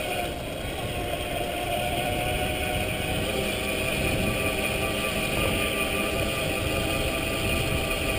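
Electric mountain bike's motor running with a steady whine of a few even tones, over a low rumble while riding.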